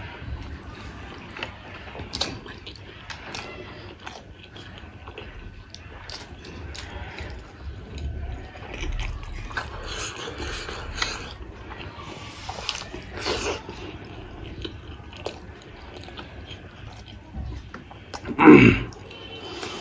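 Close-miked chewing of a mouthful of buff momos (water-buffalo meat dumplings): wet smacks and small mouth clicks. Near the end there is one short, loud mouth sound that falls in pitch.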